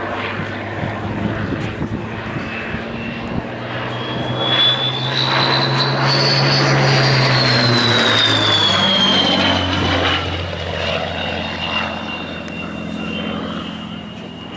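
Supermarine Spitfire Mk I with a Rolls-Royce Merlin engine making a flypast: the engine swells to its loudest in the middle and drops in pitch as it passes. Over it runs an unusual high-pitched whistle that rises and then falls. The whistle is typical of the early Spitfire and is put down either to its small round oil cooler or to the gun camera port.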